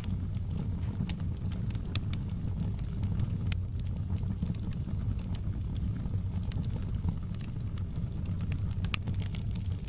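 Wood fire crackling, many irregular sharp pops and snaps over a steady low rumble of the burning fire.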